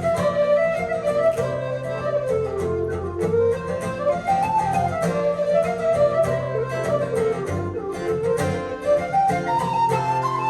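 Irish traditional dance tune played live by a small folk ensemble: a quick, ornamented melody on a wind instrument, with button accordion and plucked-string accompaniment over steady held low notes.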